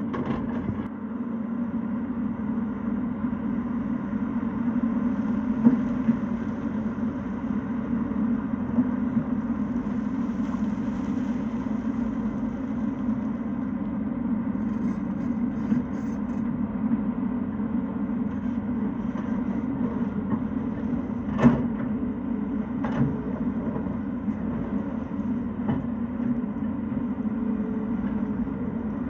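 Tata Hitachi excavator's diesel engine running steadily, with a few sharp knocks now and then, the loudest about two-thirds of the way through.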